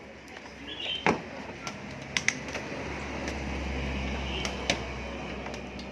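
A few sharp clicks and knocks as electronic parts and connectors are handled. A steady low hum comes in about halfway through.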